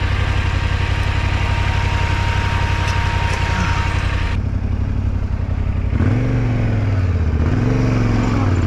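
Yamaha Ténéré 700's parallel-twin engine running at low speed over rough ground, with hiss over it that stops abruptly about four seconds in. In the last few seconds the revs rise and fall several times as the throttle is worked.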